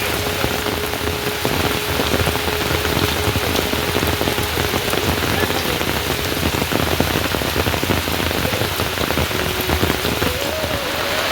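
Steady rain falling, with many individual drops ticking on a surface. A faint held tone sounds through the first half.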